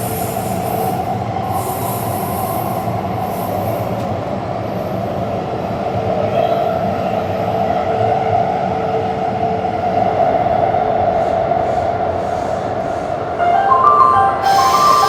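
Taipei Metro train running along the Zhonghe-Xinlu line, a steady rumble and hum of wheels and motors. Near the end, a short stepped chime melody starts up over the running noise.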